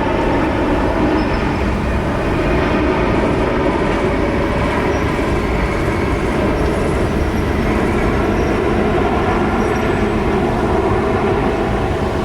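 Jet airliner engines running, a loud steady rumble.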